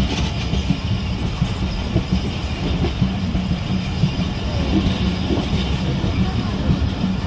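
Allama Iqbal Express passenger coach running along the track, heard from an open carriage window: a steady rumble of steel wheels on the rails with small irregular clicks throughout.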